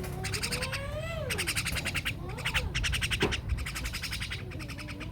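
Animal calls: a rapid pulsing high chatter that stops and starts, with drawn-out lower calls that glide up and then fall in pitch.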